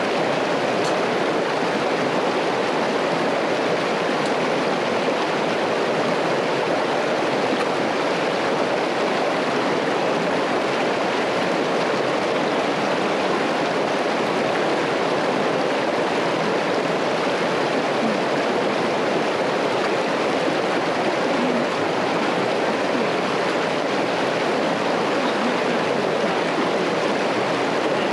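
Linville River rushing steadily, a constant unbroken whoosh of flowing water.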